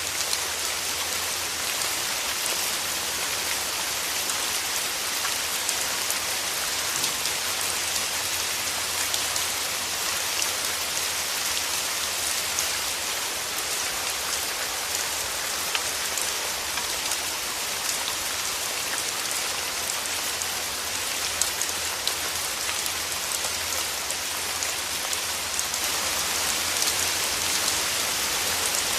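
Steady rain falling, an even hiss dotted with many small drop taps, growing slightly heavier near the end.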